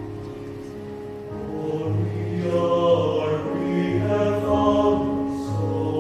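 Youth choir singing sustained chords in several parts, swelling louder about two seconds in.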